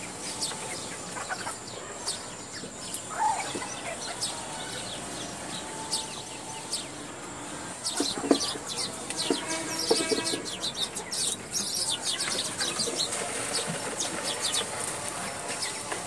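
Birds calling in the background: short clucking and chirping calls scattered throughout, busiest around the middle.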